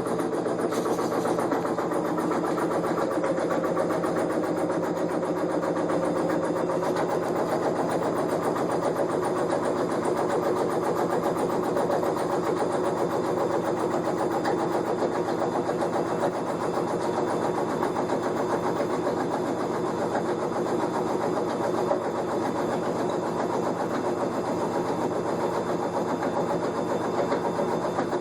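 Kenmore front-loading washing machine running with a steady, rough rumbling grind from its drum bearing, the sound of a bad bearing.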